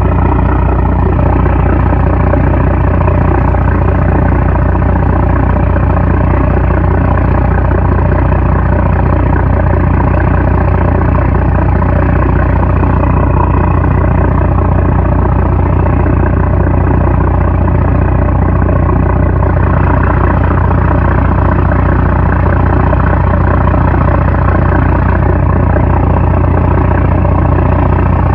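A 750-horsepower fishing trawler's diesel engine running steadily under load, a loud, even, deep drone with no let-up.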